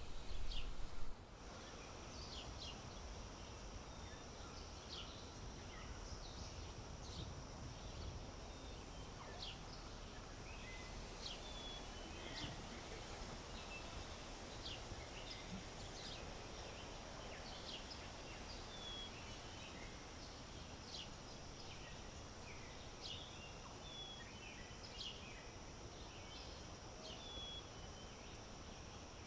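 Outdoor ambience of small birds chirping, many short calls throughout, over a steady high-pitched insect drone and a low rumble of wind. A louder low rumble cuts off suddenly about a second in.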